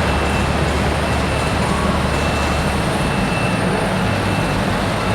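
Hot farm tractor's turbocharged diesel engine running loud under load on a pull, a dense steady noise with a faint high whistle running through it.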